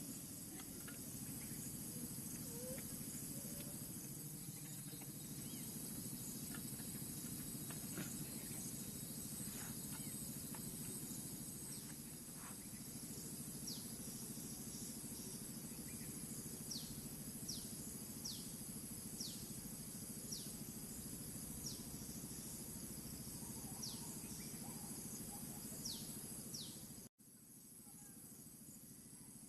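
Faint forest ambience: a steady high insect drone over a low hum, joined about halfway through by a series of short, falling, high chirps about one a second. It all cuts off suddenly a couple of seconds before the end.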